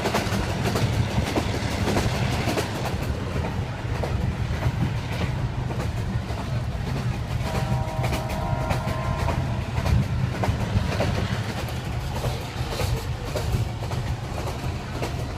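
Train running along the track: a steady rumble with the wheels clattering over rail joints. About eight seconds in, a short higher tone of several pitches sounds over it for a couple of seconds.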